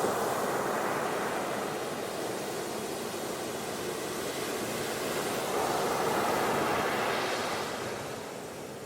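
Ocean surf washing onto a beach, a continuous rushing hiss of water; a wave swells louder a little past the middle and draws back near the end.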